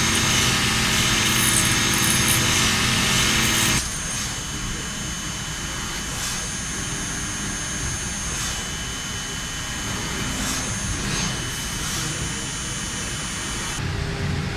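WFL M60 MillTurn CNC machine running, a steady mechanical drone with several high steady whines from its drives. The noise drops abruptly about four seconds in, then goes on quieter with a few faint ticks.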